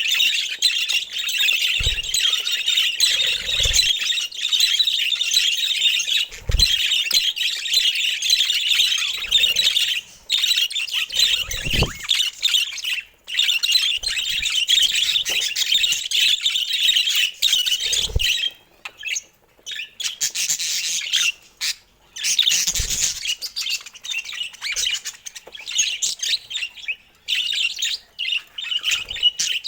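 A flock of budgerigars chattering and chirping continuously, with a few brief lulls past the middle.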